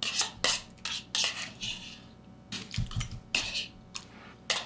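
A spoon clinking and scraping against a cereal bowl, about ten short, sharp knocks and scrapes, with a duller knock about three seconds in.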